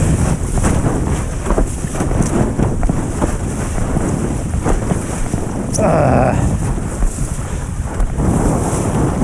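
Strong wind buffeting the microphone, with water rushing and splashing beneath a windfoil board in high wind. A short wavering pitched sound cuts in about six seconds in.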